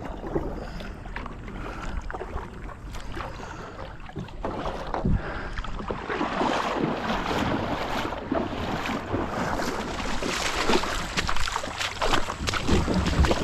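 A kayak moving through shallow river water: paddle splashing and rushing water with scattered light knocks. It gets louder from about six seconds in.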